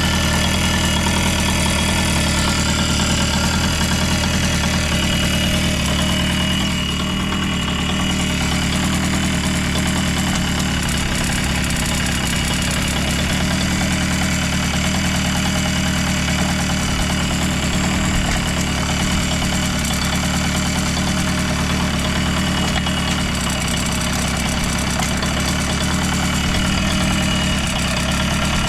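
Yamaha YB-1's 50cc two-stroke single-cylinder engine idling steadily, with a slight dip about seven seconds in. The seller describes it as free of abnormal noise.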